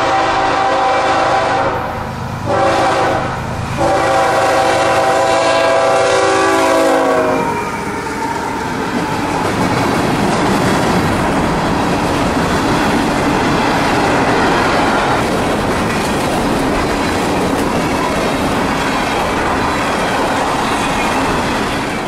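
Horn of a GE AC4400CW freight locomotive sounding for a grade crossing: a few blasts with short breaks, the last a long one ending about seven and a half seconds in. Then the steady rumble and clickety-clack of a train of empty rock hopper cars rolling past close by.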